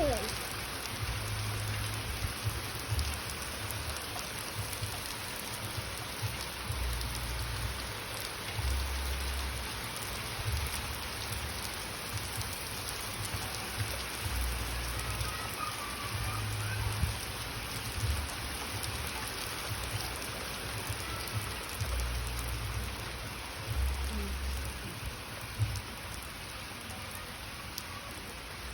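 Steady rain falling, an even hiss of rain with scattered drops ticking on surfaces. A low rumble comes and goes under it.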